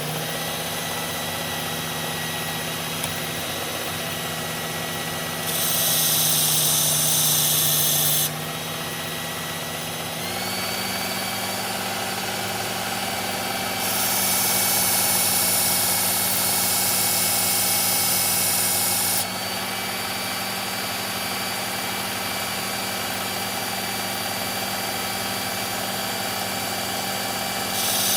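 Electric belt knife sharpener running steadily, its motor pitch stepping up about ten seconds in. Twice a loud hiss of the steel blade grinding on the abrasive belt, once for about three seconds and later for about five.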